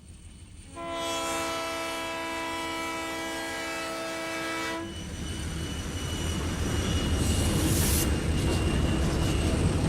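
Alco RS-1 diesel switcher sounding its horn in one long blast of about four seconds, then the locomotive and train running past with a rising low rumble and a brief hiss near the end.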